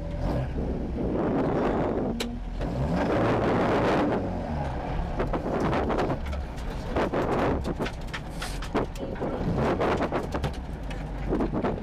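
Vauxhall Nova 1400 rally car's 1.4-litre four-cylinder engine running from inside the cabin, its note rising and falling a few seconds in, with short knocks and rattles through the second half.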